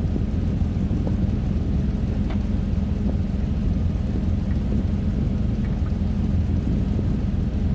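Truck engine running steadily, a low rumble with a few faint light ticks over it.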